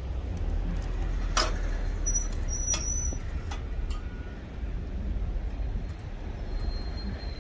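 Wood fire burning hard in a downdraft wood-burning stove: a steady low rumble with a few sharp crackles and pops from the burning wood.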